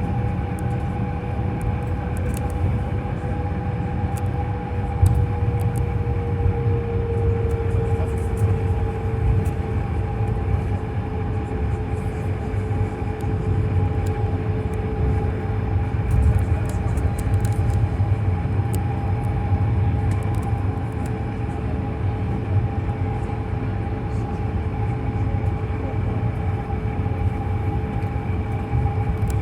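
Airliner cabin noise while taxiing before takeoff: a steady low rumble with the jet engines' steady whine at low power. One tone dips slightly in pitch about seven seconds in. Faint scattered ticks sound over it.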